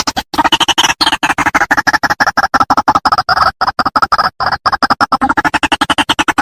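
White-breasted waterhen calling: a loud, fast run of short harsh notes, about ten a second, drifting slightly in pitch.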